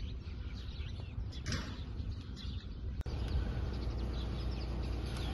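Small birds chirping now and then over a steady low rumble, with the clearest chirp about one and a half seconds in.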